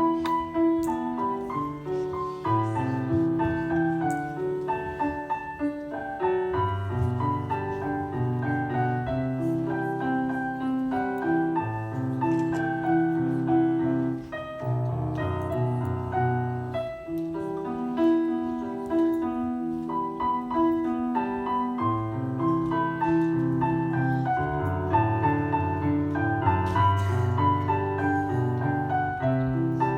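Piano music: a steady run of notes over held bass chords.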